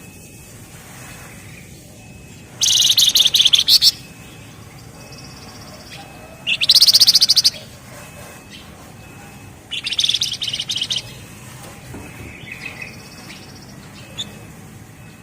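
Javan fulvetta (flamboyan, wergan jawa) singing in three loud bursts of rapid, dense, drilling trill, the song bird-keepers call ngebren rapat, each a little over a second long, with faint chirps between.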